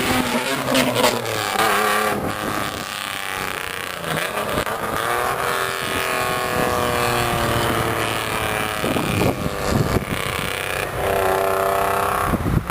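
Old Japanese cars with loud aftermarket mufflers revving over and over in a rhythmic muffler call, the engine pitch rising and falling with each blip of the throttle.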